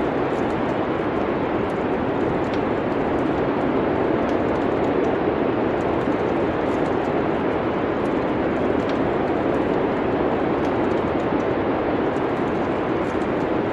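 Wood fire in a fireplace crackling faintly over a steady rushing noise, with scattered small pops.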